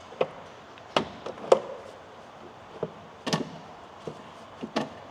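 About ten irregular clicks and knocks of plastic engine-bay parts and tools being handled while the airbox is being taken off; the loudest knock comes about one and a half seconds in.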